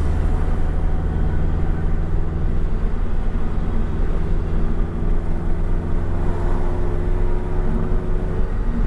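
In-cabin sound of a Toyota 86-family coupe's flat-four boxer engine and modified exhaust cruising under steady throttle, a low drone with a faint tone slowly rising in pitch. Near the end the engine note drops as the car settles into sixth gear, where the exhaust goes quiet.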